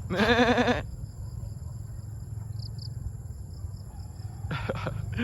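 A goat bleats once, a loud, quivering call lasting under a second. Another short call follows near the end.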